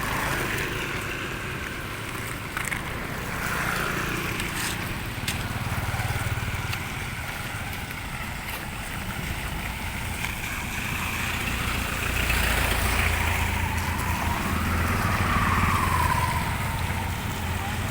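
Road traffic: vehicle engines running past, with a continuous low rumble that grows louder in the second half as a vehicle goes by, its pitch dropping as it passes.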